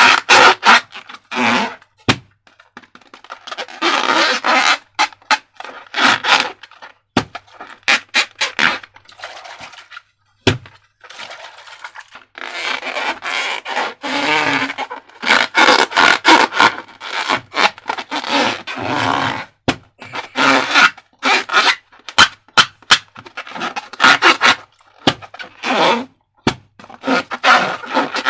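Slime and a rubber balloon being handled and worked by hand: irregular sticky crackling and scraping, with many sharp clicks throughout and some longer stretches of a second or two.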